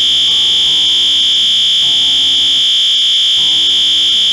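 System Sensor L-Series P2WL horn strobe sounding its electromechanical horn tone on the continuous pattern: one loud, steady, high-pitched tone without a break.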